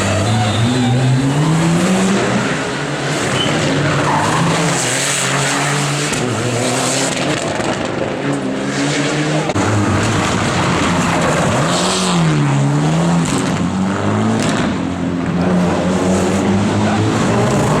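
Rally car engine revving hard, its pitch climbing and dropping again and again through gear changes and lifts, with tyre noise under it.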